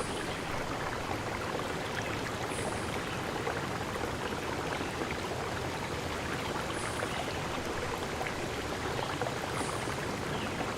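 Running water, a stream flowing steadily with a fine, even splashing. Four faint, brief high-pitched sounds come over it, spread through the stretch.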